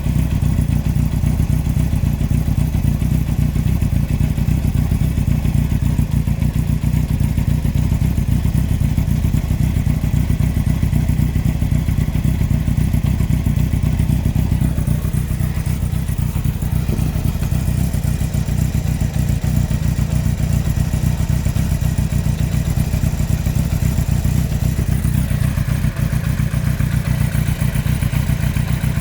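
2003 Yamaha R1 inline-four engine running with a rapid, steady knock from the bottom end: the sign of a failed big end bearing on cylinder 4.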